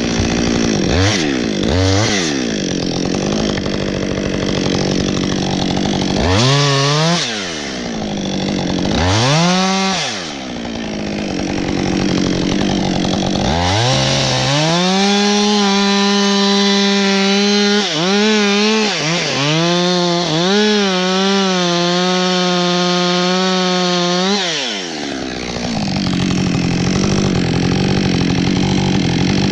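Husqvarna 562 XP two-stroke chainsaw idling and being blipped several times. It is then held at high revs for about ten seconds, wavering and dipping as it cuts wood, before dropping back to idle.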